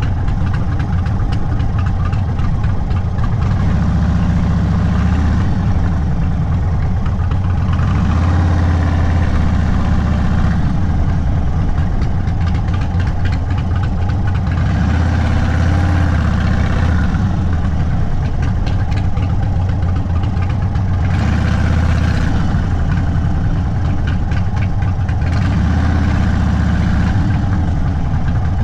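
Indian Sport Chief's V-twin engine running through a Sawicki Speed aftermarket exhaust, a loud, steady low rumble whose pitch rises and falls a few times with the throttle.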